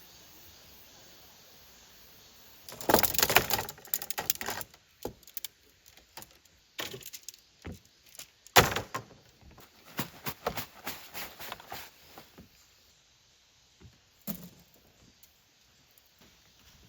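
Handling noises: a dense clatter of clicks and knocks about three seconds in, then scattered single knocks and thunks for several seconds, and one more knock near the end.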